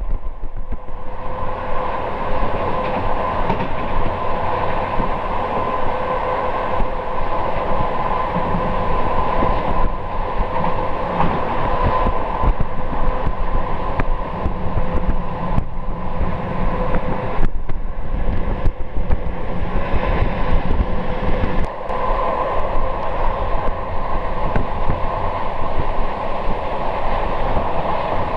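Train running steadily along the line, heard from inside the carriage: a continuous rumble of wheels on rail with a steady whine, and an occasional clack.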